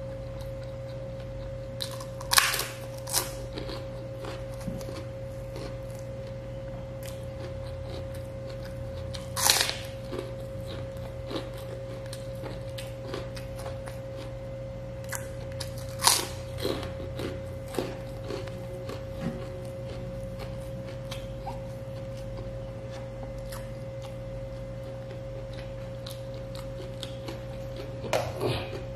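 A man biting and chewing food close to the microphone, with a handful of sharp crunches spaced several seconds apart and a small cluster near the end, over a steady hum with a constant high tone.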